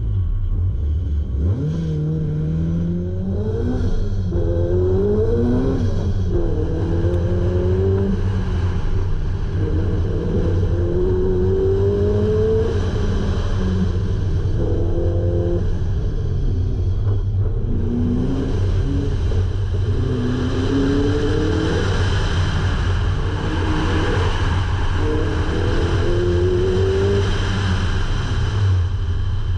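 A supercharged Honda CRX engine pulls away from a standstill about a second and a half in, then repeatedly revs up and drops back as the car accelerates and lifts through a cone course. A rushing wind and road noise grows louder in the second half.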